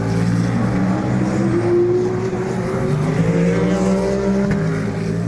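Endurance race cars running on the circuit, their engines steady and loud, with one engine note rising in pitch about two seconds in.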